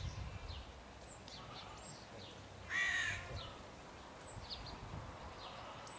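A bird gives one loud, harsh call about halfway through, while small birds make short, high, falling chirps throughout.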